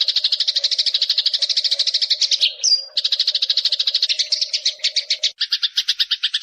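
Eurasian tree sparrow chattering: a fast, even run of sharp chirps, about a dozen a second, with one sharper whistled note about two and a half seconds in and a short break just after. The chirps change pattern a little past five seconds.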